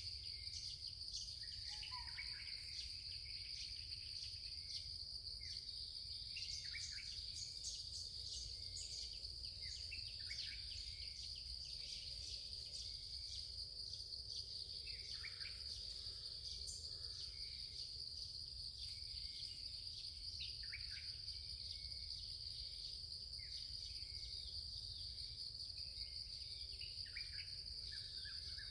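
Steady high-pitched drone of crickets or cicadas, in two unbroken tones, with scattered short bird chirps throughout.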